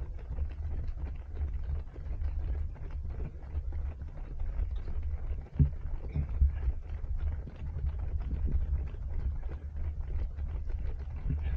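Low, uneven rumble of wind and body movement on a runner-worn Insta360 Go3 action camera's microphone, with a few soft thumps.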